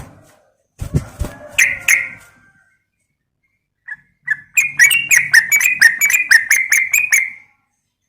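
Yellow-vented bulbul (trucukan) calling: a short burst of notes about a second in, then a rapid chattering run of about five notes a second from about halfway through until near the end.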